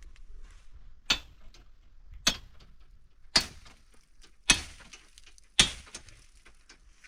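Five evenly spaced hammer blows, about one a second, each a sharp strike with a short ringing tail.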